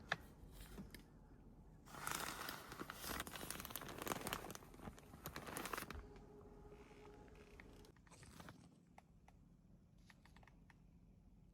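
Rustling and crinkling handling noise for about four seconds, starting about two seconds in, followed by a few scattered faint clicks.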